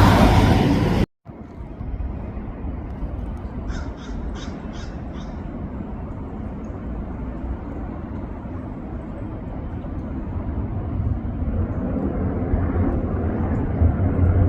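A crow cawing about five times in quick succession over a steady low rumble that grows louder toward the end. A loud rushing noise cuts off abruptly about a second in.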